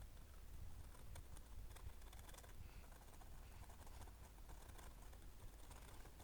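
Near silence with scattered faint, light clicks and scratches.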